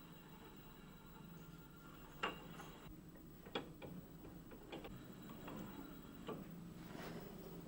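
Light, irregular clicks and taps of small parts being handled, about six over several seconds, over a faint steady hum.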